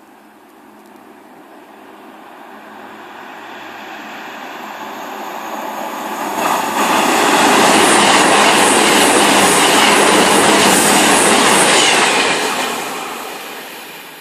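A train passing through the station at speed without stopping: its sound rises steadily over about six seconds, then a loud rush of wheels on rail with rapid, evenly spaced clicks lasts about five seconds before it fades away.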